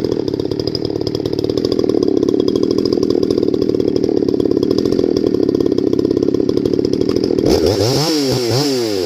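Husqvarna 350/353 two-stroke chainsaw idling steadily, then its throttle blipped up and down a few times near the end.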